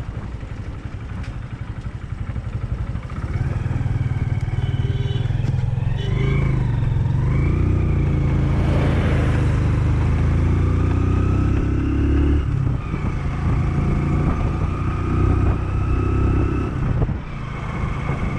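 Hero Glamour 125 cc single-cylinder motorcycle engine running while the bike rides on, getting louder about three seconds in, with higher tones gliding up and down over it for a few seconds.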